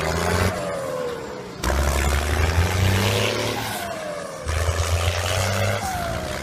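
A motor vehicle engine running with a low drone and short falling whines. It comes in spliced pieces that cut in abruptly about one and a half seconds and four and a half seconds in.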